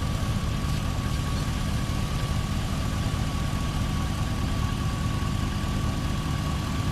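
Chevrolet Silverado 2500 pickup engine idling steadily under the open hood, with a thin steady whine held over the rumble.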